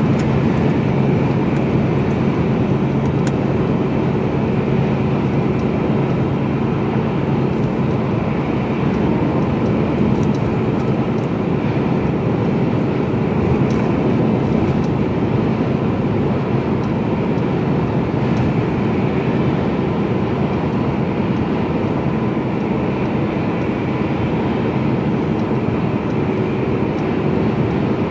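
Mercedes-Benz Actros truck driving at a steady speed, heard inside the cab: a steady diesel engine drone with road and tyre noise.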